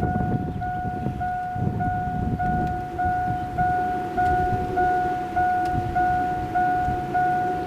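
An electronic alert tone beeping steadily, about three beeps every two seconds, over an uneven low rumbling noise.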